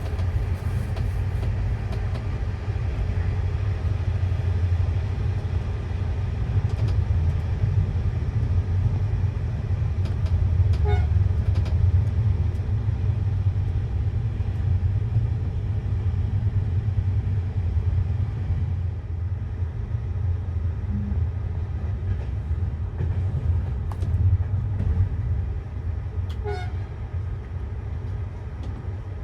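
Steady low rumble of a passenger train running along the track, with a short, faint higher-pitched tone twice.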